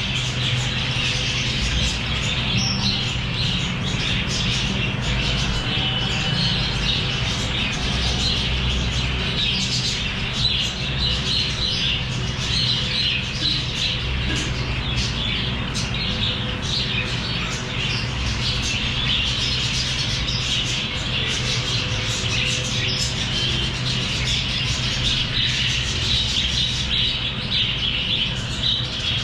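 A flock of small pet parrots chattering and squawking without pause, over a steady low hum.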